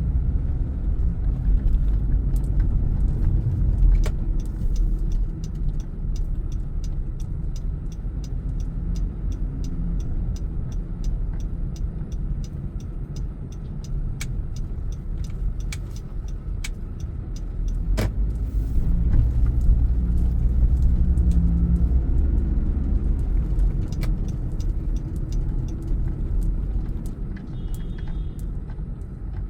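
Car being driven, heard from inside the cabin: a steady low rumble of engine and road noise, louder for a few seconds past the middle. A light, regular ticking runs through the first half and comes back near the end.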